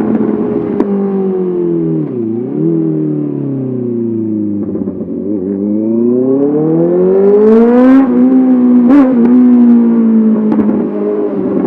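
Honda CBR 650R inline-four motorcycle engine through an SC-Project SC1R exhaust, heard while riding: the revs ease off with a brief dip about two seconds in, then climb steadily under acceleration for about three seconds before levelling off. A single sharp click about nine seconds in.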